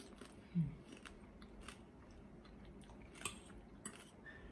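Close-up chewing of crispy roast pork knuckle skin, with scattered sharp crunches and clicks, the loudest a little over three seconds in.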